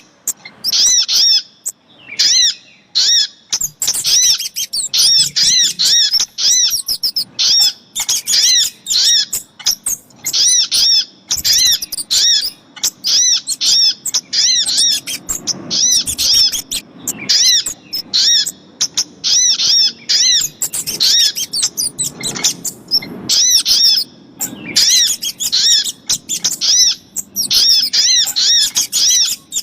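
Bird-trapping lure recording of little spiderhunter (sogok ontong) calls mixed with kemade calls: rapid series of sharp, high, arched chirps repeated in quick bursts with short pauses, the sound of a female calling to draw in males.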